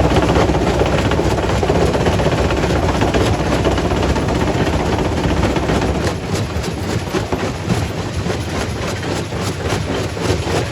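Quarry primary rock crusher running and crushing stone: a dense, continuous rumble and grinding that thins out about six seconds in into separate knocks and clatter of rock.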